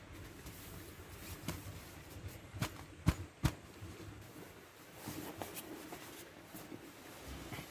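A few sharp clicks and knocks, the loudest two close together about three seconds in, over a faint steady background noise.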